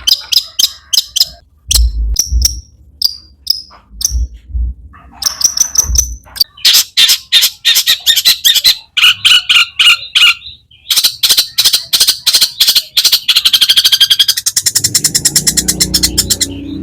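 Long-tailed shrike (cendet) singing a fast, harsh song of sharp, repeated high notes and chatters mixed with mimicked calls of other birds. It ends in a rapid rattling run of notes.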